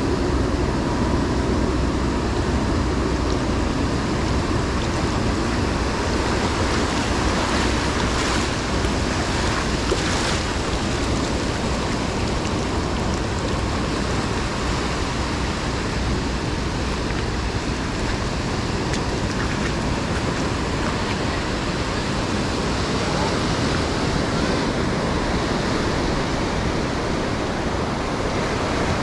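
Ocean surf washing and breaking on a beach, a steady wash of wave noise.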